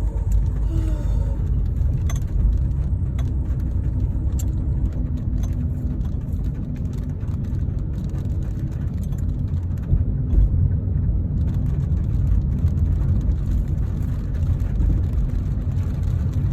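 Steady low rumble of motor vehicles, like road traffic, with a faint steady hum.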